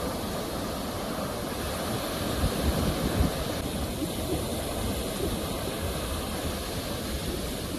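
Ocean surf: a steady wash of breaking waves with a deep rumble, swelling louder about two and a half to three seconds in as a wave breaks.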